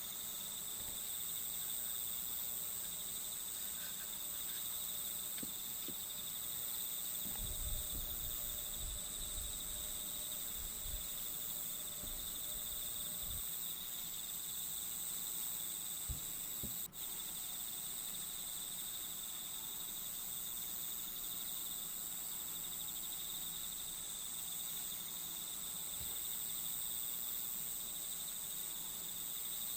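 Steady chorus of crickets trilling without a break. A few soft low thumps come between about eight and thirteen seconds in, and a single sharp click near seventeen seconds.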